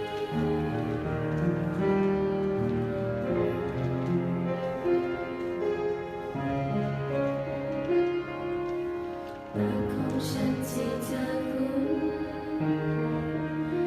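A vocal group singing a song in four-part harmony (soprano, alto, tenor and bass), with sustained chords that move every second or so. About nine and a half seconds in there is a short break before the voices come back in.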